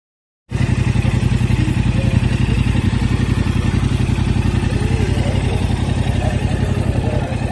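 2021 Yamaha R7's 689 cc parallel-twin engine idling steadily with an even, rapid exhaust pulse. It cuts in abruptly about half a second in.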